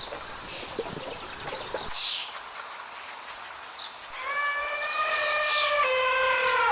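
Hoof knocks stop abruptly about two seconds in, followed by scattered high bird chirps. Then comes the loudest part, a long animal call held on one steady pitch, which moves to a slightly lower note near the end.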